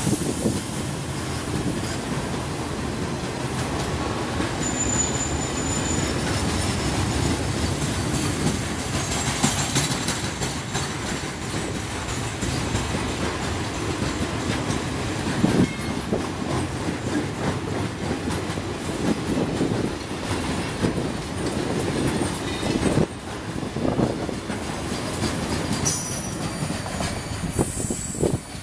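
Freight train of loaded coil wagons rolling past quickly: steady rumble of the wheels with repeated clacking over the rail joints, and a brief high wheel squeal a few seconds in and again near the end.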